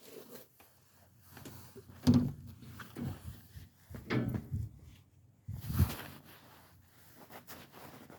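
Kitchen drawer and cupboard handled while rummaging for a knife: a few separate knocks, slides and rattles, the loudest about two, four and six seconds in.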